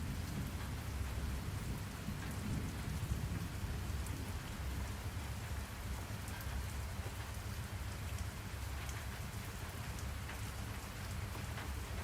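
Steady rain sound with scattered drop ticks over a low rumble, a little stronger in the first few seconds.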